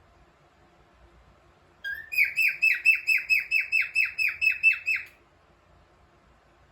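Cockatiel singing: about two seconds in, a short lead-in note, then a fast string of about thirteen repeated downward-sliding notes, roughly four a second, lasting about three seconds and stopping abruptly.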